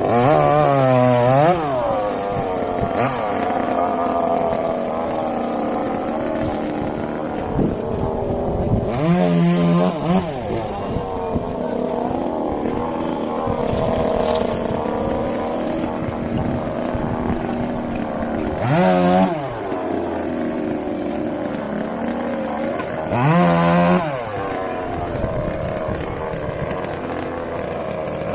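Two-stroke chainsaw running steadily while cutting tree wood, revved up high and back down four times: at the start, about nine seconds in, about nineteen seconds in and about twenty-three seconds in.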